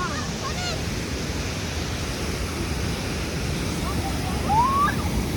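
Steady rush of water pouring over a low-head dam on a creek. Faint brief voices sound over it about half a second in and again near the end.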